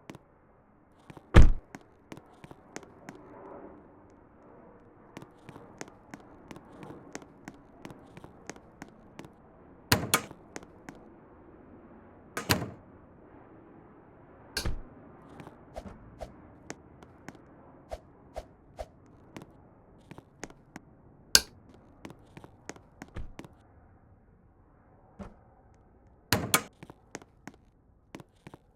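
Irregular knocks and thumps with many small clicks between them; the loudest thump comes about a second and a half in.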